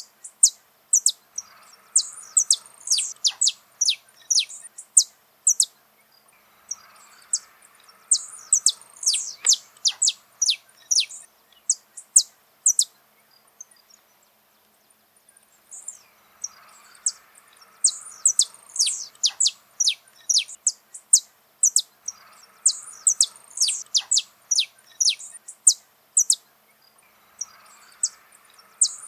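Saffron finch (canário-da-terra) singing: fast runs of sharp, high, downward-sliding notes, in phrases several seconds long broken by short pauses.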